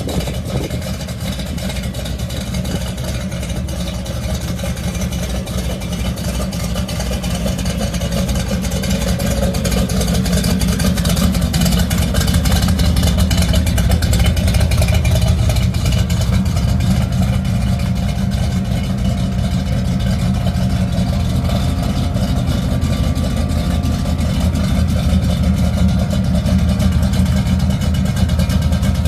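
Classic Chevrolet Impala's engine running with a steady, deep exhaust rumble. It grows somewhat louder over the first dozen seconds, then holds even.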